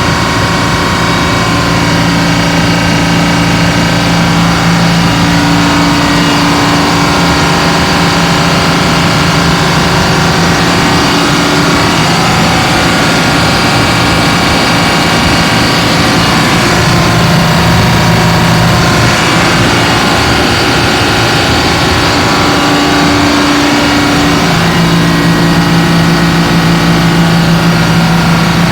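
Detroit Diesel generator set's diesel engine running loud and steady, with a constant droning hum. Its pitch sags a little through the middle and then settles back.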